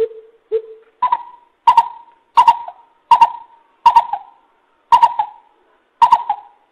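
Coucal (bubut) hooting: two low hoots, then a slow series of seven higher hoots, each sharp-edged and a little under a second apart.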